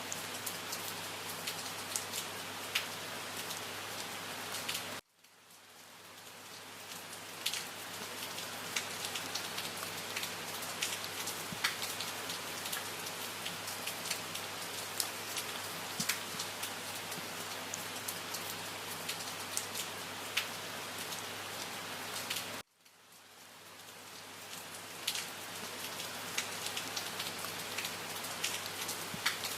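Steady rain falling, with individual drops ticking sharply over the hiss. The rain cuts out abruptly about five seconds in and again about seven seconds before the end, each time swelling back within a couple of seconds.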